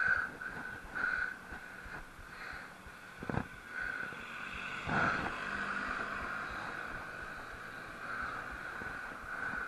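Riding noise from a bike in motion: wind buffeting the microphone over a steady high whine, with two knocks about three and five seconds in.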